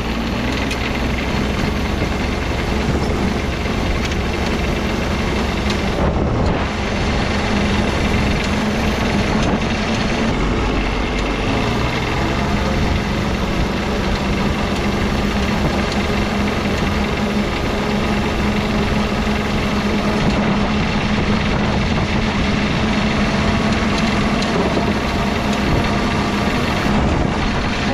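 Diesel engine of a diesel-swapped Power Wheels ride-on truck running steadily while the truck is driven, at running temperature.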